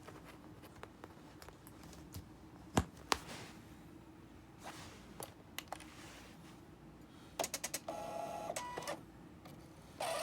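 Canon PIXUS iP90v inkjet printer's mechanism working: scattered clicks, a quick run of clicks, then a squealing whine for about a second. It is the abnormal squeal that the owner takes for a fault.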